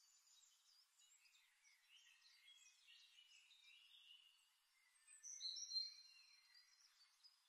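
Faint recorded birdsong: a mix of small chirps and whistled calls, with one louder whistled call about five seconds in.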